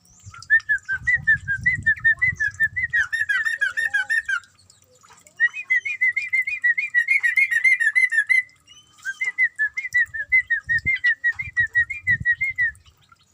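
Yellow-vented bulbul (trucukan) singing in three long runs of rapid, repeated short whistled notes at a steady pitch. There is a low rumbling noise underneath at the start and again near the end.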